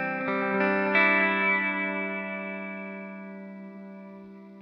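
Electric guitar through an Old Blood Noise Endeavors Sunlight Stereo pedal's delay, set to light frequency modulation. A chord is struck about a second in, then rings out and fades slowly before cutting off suddenly at the end.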